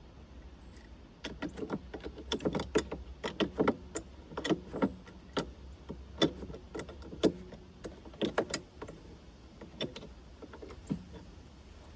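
Irregular metal clinks and knocks of hand tools and steel parts being handled while the sawmill's saw guides are worked on: a quick cluster of sharp clanks from about a second in, thinning out near the end.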